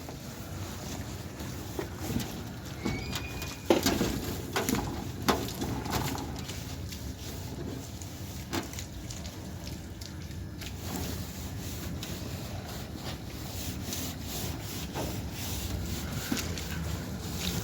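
Irregular knocks, taps and rubbing from hands-on manual work, with the sharpest knocks about four and five seconds in.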